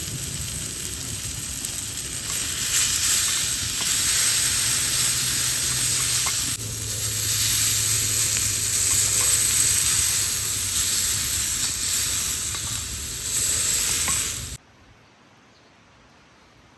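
A steady, loud sizzling hiss that shifts in level once, about six and a half seconds in, and cuts off suddenly near the end, leaving faint background.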